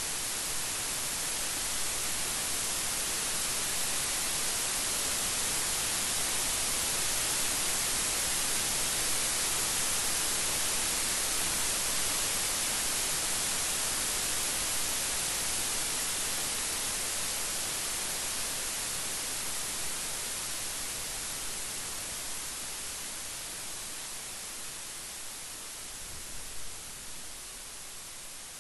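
Steady heavy rain, an even hiss that swells a little and then gradually fades over the last third, with a few faint patters near the end.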